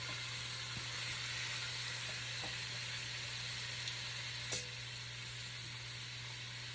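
Marinated chicken pieces searing in hot avocado oil in a pot: a steady sizzle, with two light clicks a little past halfway.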